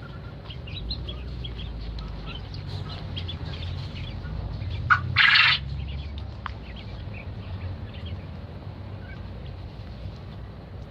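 Caged quail and poultry chicks calling in many short, scattered chirps and peeps, with a short, loud, noisy burst about halfway through.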